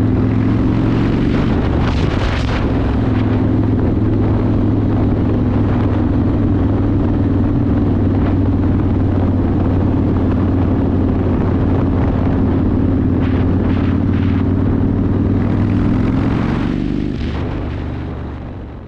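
Yamaha Warrior 1700's V-twin with custom exhaust running at a steady cruising speed, engine pitch holding even, with a few brief rushes of wind noise. The sound fades away over the last two seconds.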